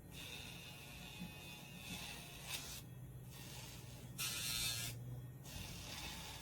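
Casfuy electric dog nail grinder running with a steady hum, its spinning grinding head rasping against a dog's nail in short hissing bursts, the longest and loudest a little past the middle.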